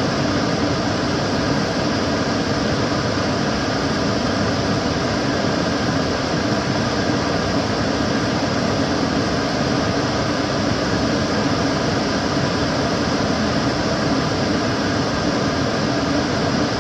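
Kitchen cooker hood extractor fan running steadily: an even, unchanging rush of air with a low hum underneath.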